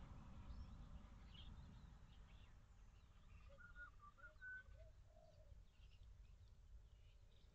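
Faint bird calls and chirps over low outdoor background noise, with a few short, clearer notes about halfway through.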